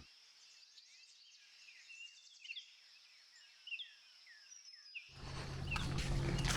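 Faint bird chirps: a string of short, falling notes, irregularly spaced. About five seconds in, a steady outdoor background noise with a low hum comes in under them.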